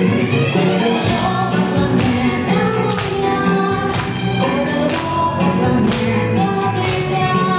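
A group of children singing a song together over a recorded backing track with a steady beat, about one beat a second.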